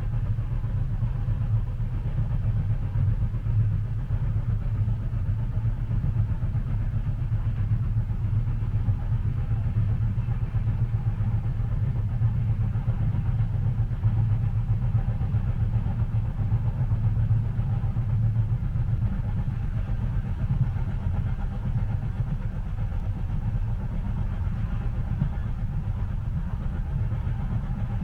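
Train running, heard from inside the passenger cabin: a steady low rumble with a soft hiss above it.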